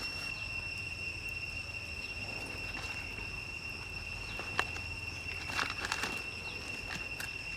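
Steady high-pitched insect drone, one unbroken tone with its overtone, over a low rumble, with scattered light clicks and rustles.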